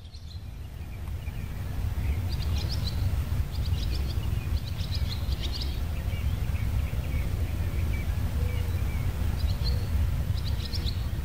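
Birds chirping in short clusters of high calls over a steady low rumble, fading in over the first two seconds.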